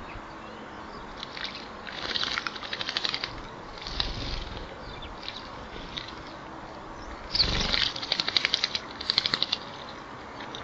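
A bird bathing in a shallow bird bath, beating its wings to splash water in quick fluttering bouts. The longest and loudest bout comes in the second half.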